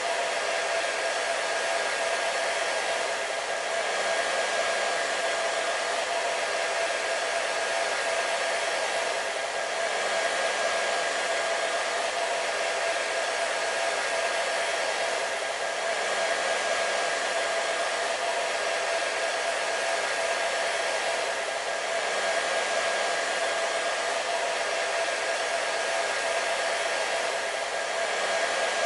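Hair dryer running steadily, a continuous airy rush with a steady whine from its motor.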